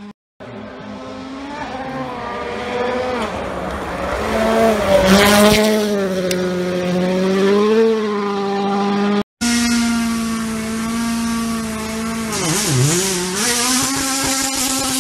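Rally cars' turbocharged four-cylinder engines at full throttle on a special stage, rising and falling in pitch through gear changes, with a noisy peak about five seconds in. About nine seconds in there is a brief cut to another car, whose engine note dips sharply and climbs again near the end.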